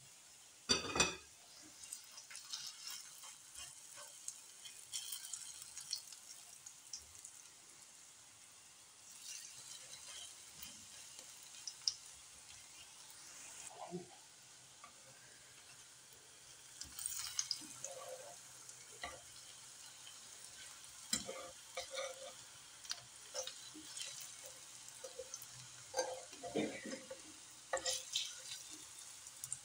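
Egg-and-onion fritters shallow-frying in oil in a cast-iron pan: a soft sizzle with scattered crackling pops. A metal spatula knocks and scrapes against the pan a few times.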